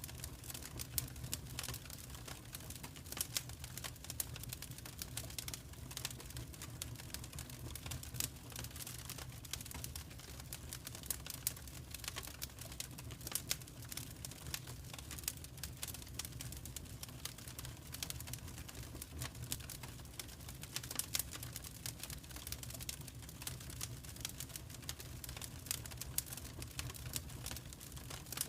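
Wood fire crackling steadily with many small irregular pops and snaps over a low rumble of the flames.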